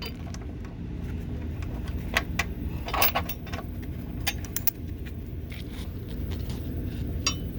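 Scattered metallic clinks and jingles of bolts, a wrench and a steel bracket being handled while fitting a running-board bracket, the hardware being started loosely by hand, over a steady low rumble.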